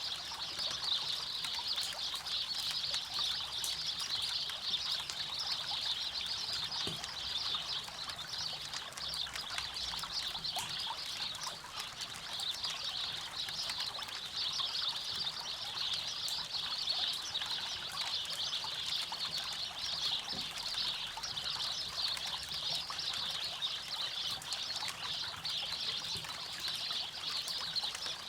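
River water running and trickling steadily, with a few faint crackles from a campfire.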